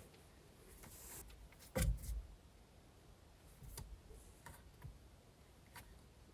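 Scattered light clicks and knocks of parts and tools being handled while fitting a steering wheel, with one louder knock about two seconds in.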